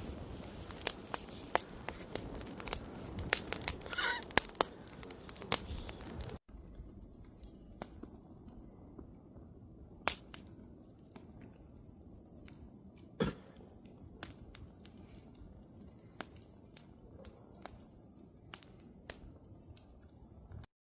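Wood campfire crackling: sharp pops and snaps over a low hiss. About six seconds in it drops abruptly to a quieter fire with sparser pops, and it cuts out just before the end.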